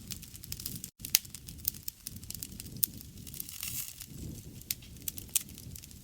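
Wood fire burning, with frequent sharp crackles and pops scattered over a low rumble of flame. A brief gap in the sound comes about a second in.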